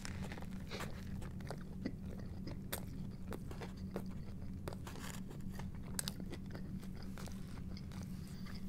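A bite into a toasted club sandwich, then chewing it, with irregular crunches of the toast scattered through.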